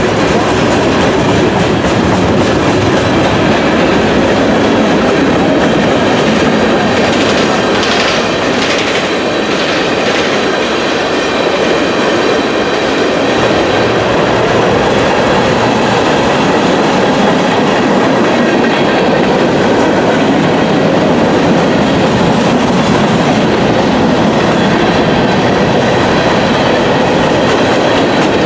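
Freight train cars rolling steadily past, their steel wheels clacking over the rail joints.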